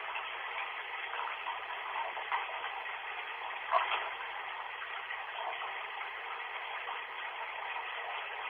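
Bath tap running, a steady even hiss of water that sounds thin, with no deep or high tones in it. A brief louder sound about four seconds in.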